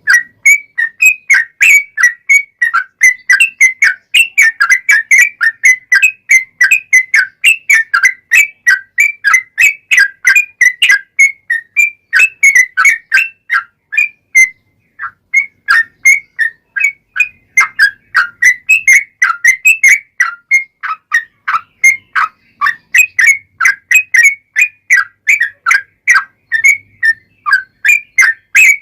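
Yellow-vented bulbul (trucukan) singing a long, rapid chattering run of short whistled notes, several a second, with one brief pause about halfway through.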